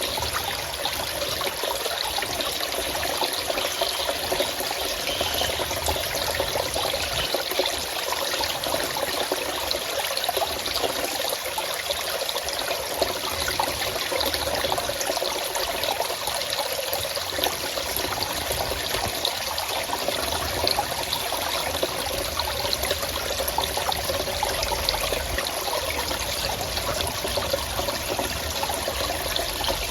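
Flowing water running steadily, a continuous splash and trickle with no break.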